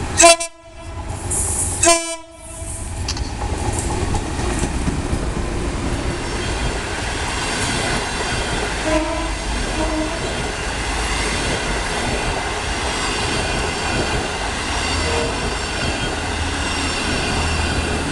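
Diesel locomotive CKD8H sounding two short horn blasts, one at the start and one about two seconds in. The locomotive and its seven CNR coaches then roll past with a steady noise of wheels on the rails.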